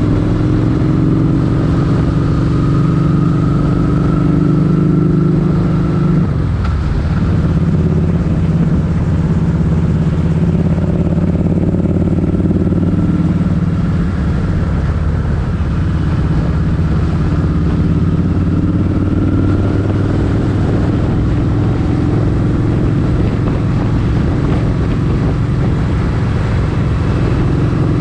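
Motorcycle engine running steadily while riding, its note rising and falling with road speed and dropping abruptly about six seconds in.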